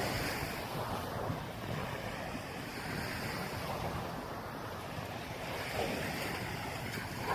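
Sea waves washing on a sandy beach, mixed with wind buffeting the microphone: a steady noisy wash that swells slightly about six seconds in.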